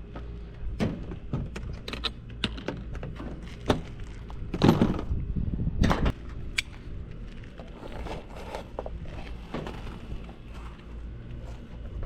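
Scattered clicks and knocks of hand work on metal HVAC equipment and conduit parts, with a louder stretch of clattering handling for about a second and a half, starting about four and a half seconds in.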